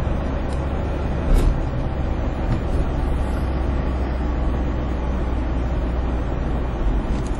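Steady low rumble of a moving vehicle's engine and tyres on the road, heard from inside its cabin, with one brief knock about a second and a half in.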